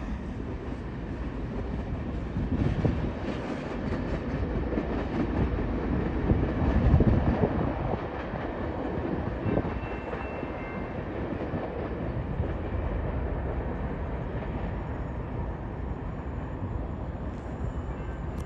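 BNSF manifest freight train rolling away on the rails: a steady rumble of wheels on track that slowly fades.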